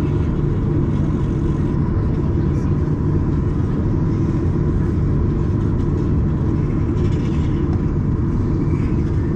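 Steady low rumble of engine and airflow noise inside a Boeing 737-800's passenger cabin, with a faint steady whine above it.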